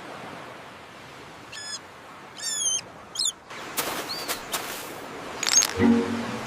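A bird calling: a few short, pitched chirps in quick succession over a steady hiss, followed by a couple of brief whooshing noises and a short whistle.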